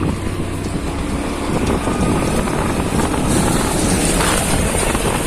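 Steady road and engine noise from a vehicle on the move, with wind buffeting the microphone.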